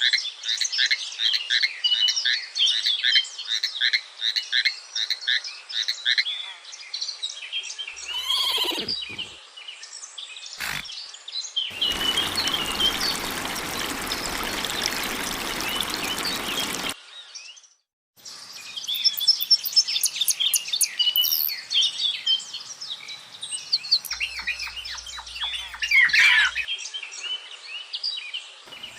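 Birds chirping in quick repeated notes, with a falling call about eight seconds in. Around the middle comes about five seconds of a loud, even hiss, then a short gap, after which dense chirping resumes.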